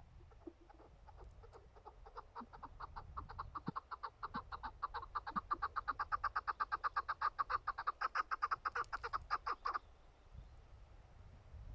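Chukar partridge calling: a long run of quick, clucking "chuk" notes that speeds up and grows louder over several seconds, then stops abruptly.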